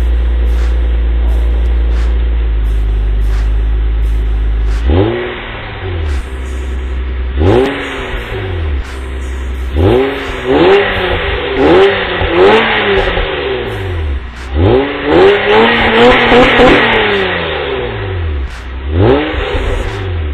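2001 Acura TL's 3.2-litre V6 breathing through XS-Power headers and Comptech axle-back mufflers: it idles steadily for about five seconds, then is revved in a series of quick blips, each rising and falling back, with the highest and longest revs a little after the middle.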